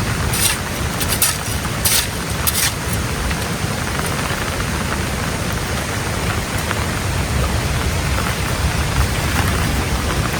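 Steady rain falling, an even hiss of noise, with a few brief sharp ticks in the first three seconds.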